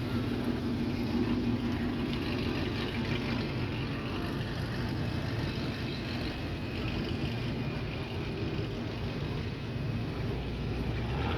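A car engine idling steadily as a low, even rumble, with no revving.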